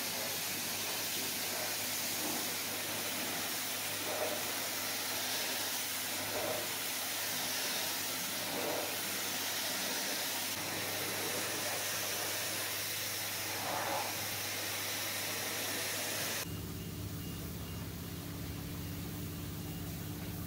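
Steady hiss of a pressure washer spraying. About sixteen seconds in it cuts off abruptly, leaving a quieter low, steady hum.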